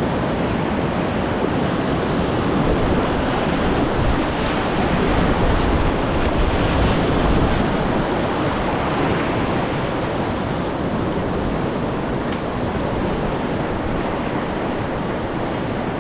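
Whitewater river rapids rushing steadily around a kayak, a loud, even water noise that swells a little around the middle.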